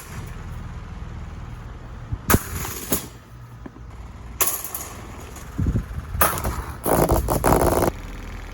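A 16-inch plastic table fan being smashed: a series of hard blows and cracking plastic, a second or so apart, then a longer crunching, rattling crash near the end, over a low steady hum.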